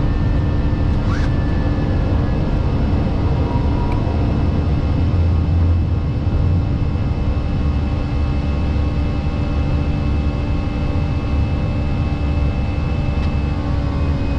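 Steady flight-deck noise of an Airbus A320 in flight: airflow and engine rumble with a constant hum.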